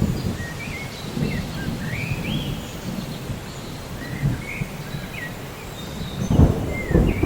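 Thunderstorm ambience: steady rain and low rolling thunder, with a bird calling in short sliding chirps over the first few seconds. A louder thunder rumble comes near the end.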